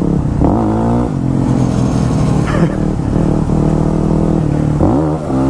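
Yamaha WR250R supermoto's single-cylinder four-stroke engine under way, its pitch climbing as it accelerates about half a second in, holding steady through the middle, then climbing again near the end.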